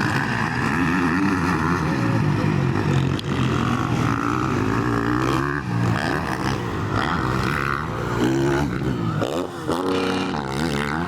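Motocross dirt bike engines racing, revving up and down as the riders work the throttle through the course.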